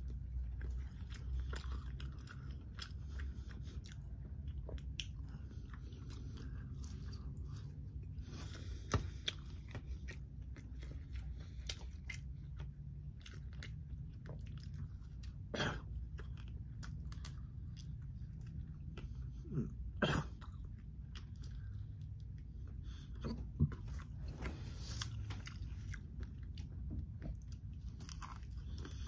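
A person biting into and chewing breaded boneless fried chicken close to the microphone: continual crisp crunching and chewing, with a few louder crunches scattered through.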